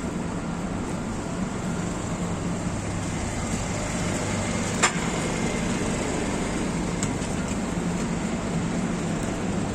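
Steady city traffic noise with a low engine hum, and one sharp click about halfway through.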